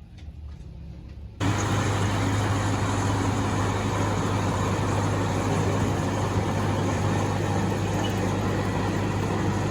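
A motor vehicle's engine running steadily with a low hum and a loud even rush of noise. It starts abruptly about a second and a half in, after a quiet stretch.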